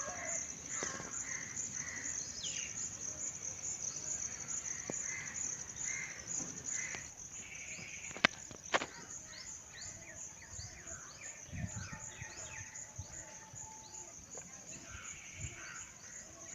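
Birds calling repeatedly over a steady, high-pitched buzz, with two sharp clicks about half a second apart a little past the middle.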